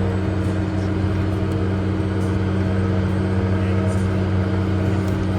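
Case 385 tractor's turbo diesel engine running steadily under load, a constant low drone.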